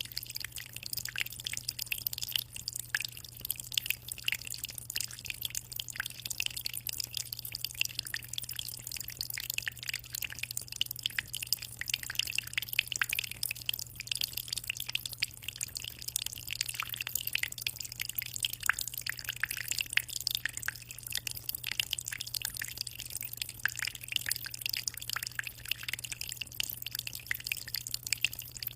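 Aquarium water trickling and splashing in a constant stream of tiny drips, over a steady low hum.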